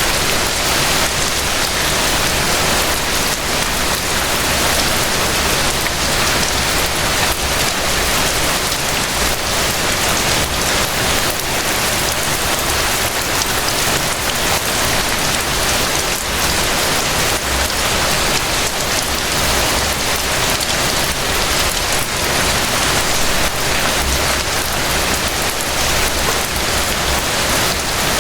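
Steady rain falling: an even, dense hiss of countless drops.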